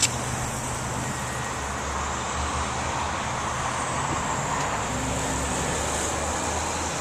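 Steady background road traffic noise, an even rumble and hiss that holds throughout, with a brief click at the very start.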